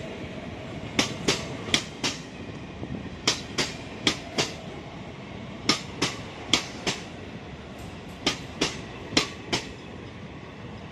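Passenger train coaches rolling past at moderate speed over a steady rumble. The wheels clack over a rail joint in quick double clicks, four clicks per group as each coach end and the next coach's bogie pass, a group about every two and a half seconds.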